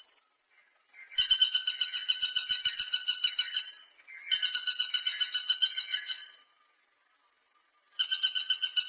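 Woodpecker call: three rapid rattling series of identical high, clear notes, about nine notes a second, each series lasting about two seconds, separated by short pauses.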